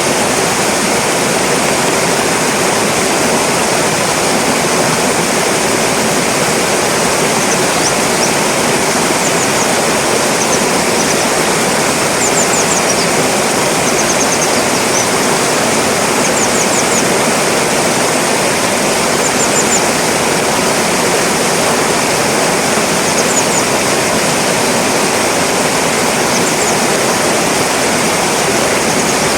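Fast-flowing stream water rushing loudly and steadily, with short, very high, sharp calls of a grey wagtail in quick clusters of two to four notes, recurring every second or two from about seven seconds in.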